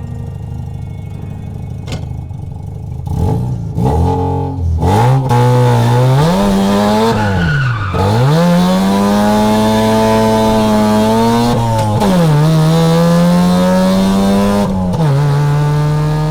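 Mazda RX-7 FC's 13B rotary engine accelerating hard through the gears. Its pitch climbs and then drops sharply at each shift, about eight and twelve seconds in, with a further drop near the end.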